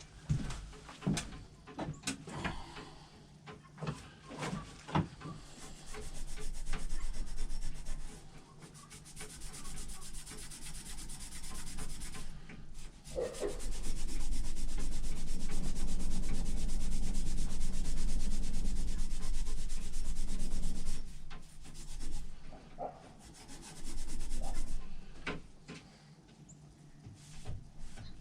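Sanding on an axe during rust removal and smoothing: a few handling knocks and clicks, then long stretches of steady rubbing, loudest and most even in the middle, and a few knocks again near the end.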